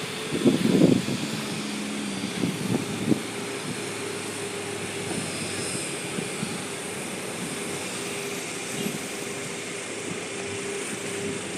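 Aircraft engine running steadily with a constant droning tone, after some irregular low rumbles in the first three seconds.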